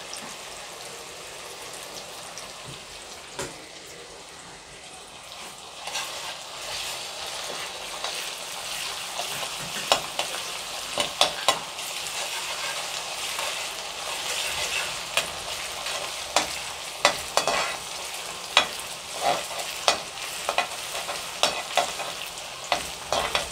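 Sliced onions, cumin and ginger-garlic paste sizzling in hot oil in an aluminium kadai, stirred with a perforated steel spatula. The spatula scrapes and clinks against the pan, the clicks coming more often from a few seconds in.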